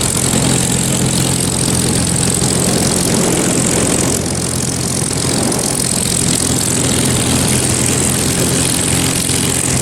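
P-51 Mustang's V12 piston engine running at a steady low idle as the fighter taxis in after landing, a low, even drone that does not change in pitch.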